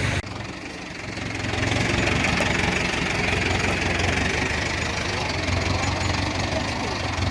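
Tractor engine running steadily with a low hum. It drops off sharply just after the start and builds back up within about two seconds.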